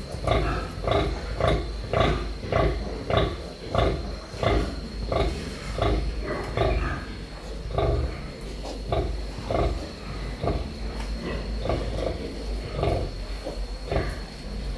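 Pigs grunting over and over in quick succession, then more spaced out from about halfway on.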